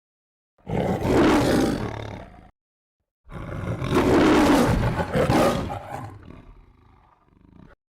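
Two lion roars from the MGM logo sound effects, played one after the other with dead silence between them. The first lasts about two seconds; the second, starting about three seconds in, lasts about four seconds and fades into a quieter growl before cutting off abruptly.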